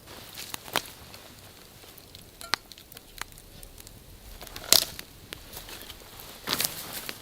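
Dry wood cracking and snapping in irregular sharp cracks and small crackles, the loudest a bit under five seconds in and a quick cluster near the end.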